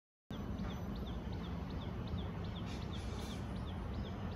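A bird calling in a rapid, even run of short, high, falling chirps, about three a second, over a low outdoor rumble.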